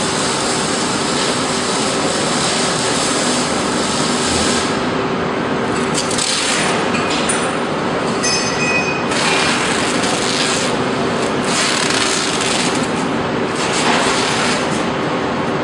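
Steady workshop machinery noise with a constant hum, and scraping or rubbing passages, some with brief high squeals about eight seconds in.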